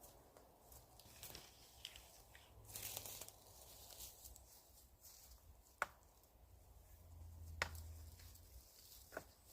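Faint rustling and crackling of dead branches being handled, with three sharp cracks of wood in the second half.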